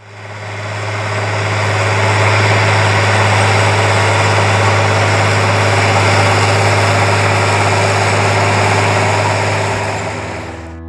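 An engine running steadily at an even speed with a strong low hum, fading in over the first two seconds and fading out near the end.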